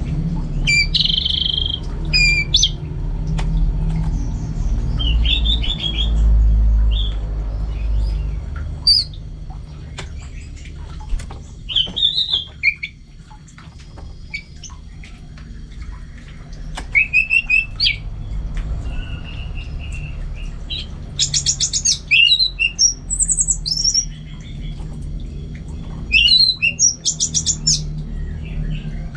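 Orange-headed thrush singing a varied song of short high phrases and fast trills, broken by pauses. A low rumble of background noise runs underneath, strongest in the first few seconds.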